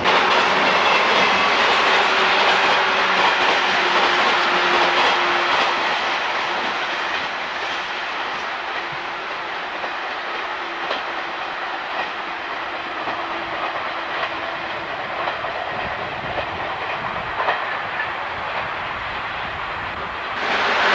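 Train running past on the tracks, its wheels clattering over the rail joints. It is loudest for the first several seconds, then settles to a steadier, lower rumble, and cuts off abruptly near the end.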